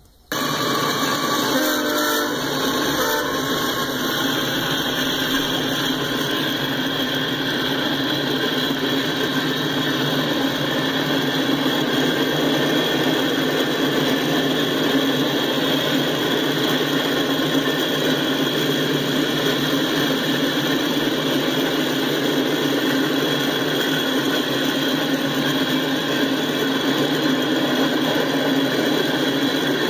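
Freight train rolling past: a string of boxcars, covered hoppers and tank cars going by with a steady rumble and rattle of wheels on rail. The sound cuts in suddenly a moment in and then holds even.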